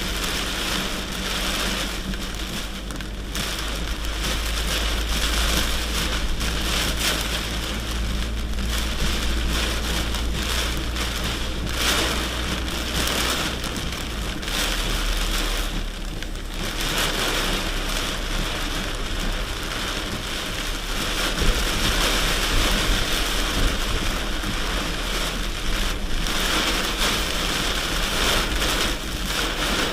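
Rain on a moving truck, a dense steady hiss over the truck engine's low steady running.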